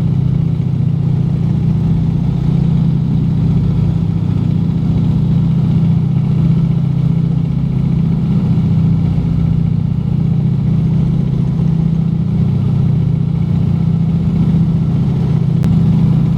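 The three radial engines of a Junkers Ju 52 running together in a loud, steady drone with a deep hum and no change in pitch.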